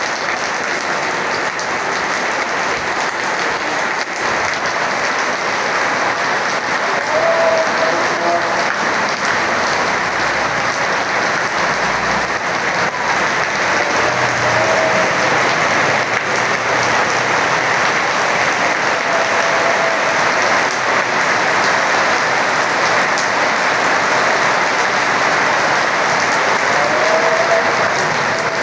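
Heavy rain falling steadily, a dense even hiss that holds at the same level throughout.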